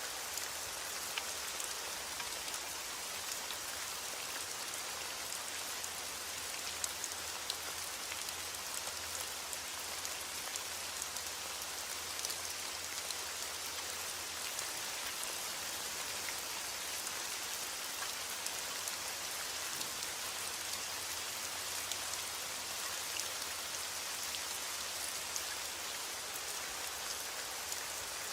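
Steady rain falling, an even hiss with scattered individual drops ticking on a surface; no thunder.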